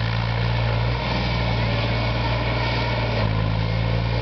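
SAME Tiger 60 4x4 tractor's diesel engine running steadily, its note shifting slightly about a second in and again just after three seconds.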